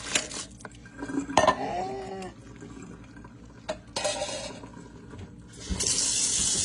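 Pots and pans clanking in a kitchen, then a kitchen faucet turned on about six seconds in, water running steadily to rinse vegetables in a pan.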